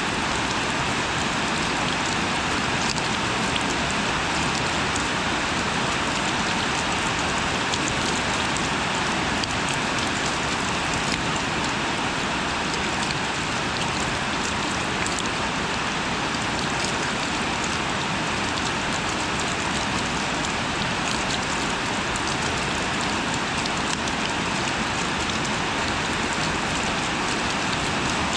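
Steady rain falling, an even wash of sound with scattered individual drop ticks.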